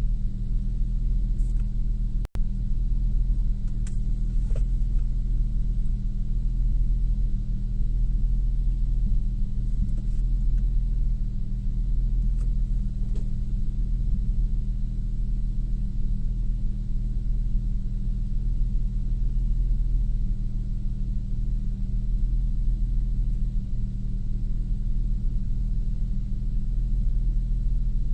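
A 2002 Nissan Maxima's 3.5-litre VQ35DE V6 running steadily with a low, even rumble, with a brief cut in the sound about two seconds in.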